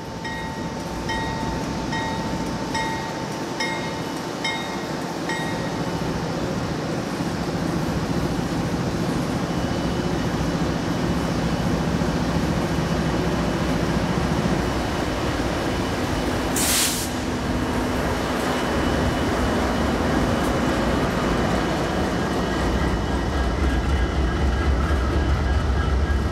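Freight train's diesel locomotives approaching and passing close by, with the engines' low rumble growing stronger near the end over the steady noise of wheels on rail. A short hiss about two-thirds of the way through.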